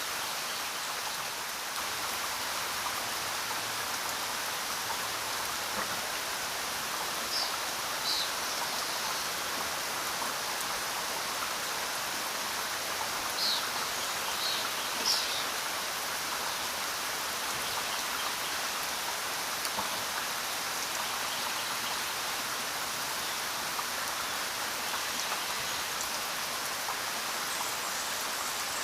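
Steady rain falling, an even hiss with no let-up. A few brief, sharper high sounds stand out about a quarter of the way in and again about halfway through.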